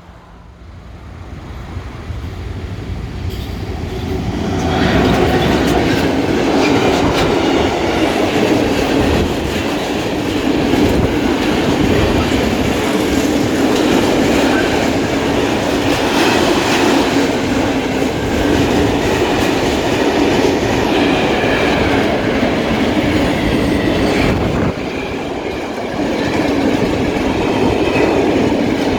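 A train hauled by a PKP class ET22 electric locomotive approaches, growing louder over the first five seconds, then runs past close by with a steady heavy rumble of wheels on the rails.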